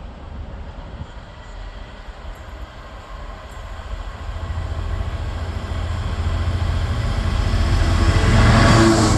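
A DB Cargo Class 66 diesel locomotive's EMD two-stroke engine hauling a freight train, its low drone growing steadily louder as it approaches and becoming loudest near the end as it nears passing.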